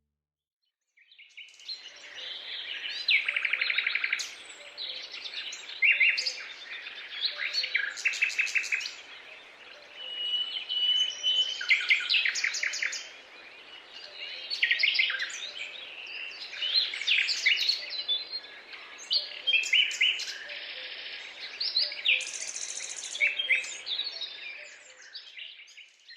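Several songbirds singing, with short chirps and trills following one another over a faint steady background hiss. The singing starts about a second in, after a moment of silence.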